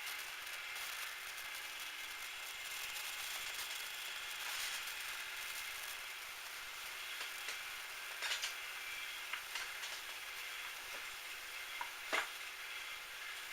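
Metal lathe running, with a steady hiss and faint whine and a few short metallic clicks in the second half, the sharpest one near the end.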